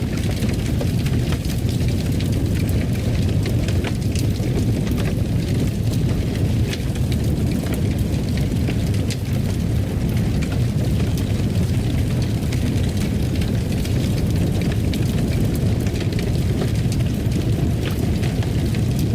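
Wood fire in a fireplace burning with a steady low rumble and scattered, irregular crackles and pops.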